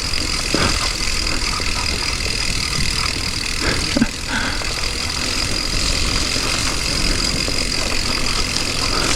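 Wind rushing and buffeting over the microphone while riding, with a steady high-pitched whine throughout and a brief bump about four seconds in.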